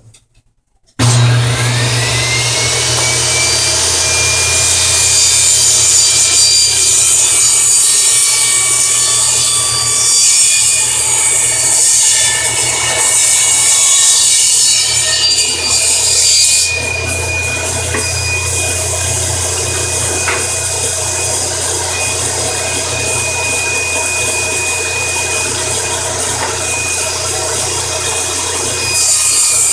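Table saw switched on about a second in, its whine rising as the blade spins up, then running steadily while a board edge is fed along the blade in a jointer jig, shaving about a sixteenth of an inch off for a straight edge. The cutting noise is louder in stretches.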